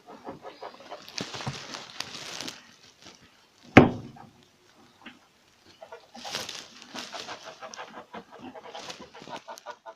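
Young rabbits scrabbling and rustling about in their pen, with one loud, sharp thump about four seconds in.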